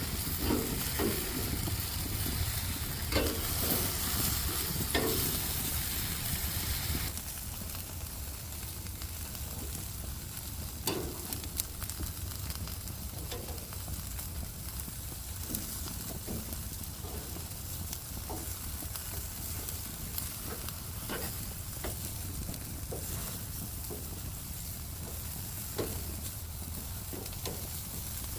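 Jerk chicken wings sizzling on a grill: a steady hiss of cooking fat with scattered pops and crackles. The hiss drops a little about seven seconds in.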